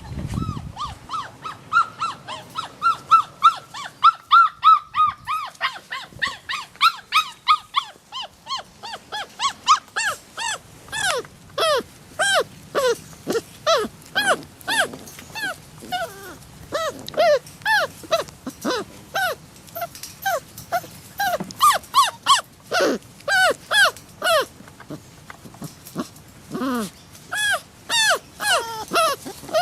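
Puppy yipping and whimpering in quick short calls, several a second. The calls are higher at first and drop lower from about five seconds in.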